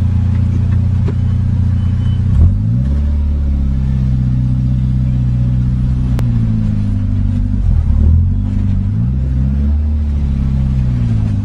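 Car engine heard from inside the cabin, running low and loud, its pitch rising and falling several times as the car accelerates and eases off.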